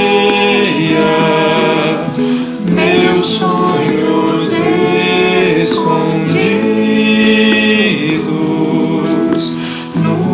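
A choir singing a song in long held notes over instrumental accompaniment.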